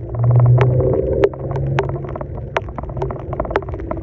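Diesel Dodge truck engine running steadily under load, loudest just after the start and easing off about a second in, with many sharp clicks and knocks over it.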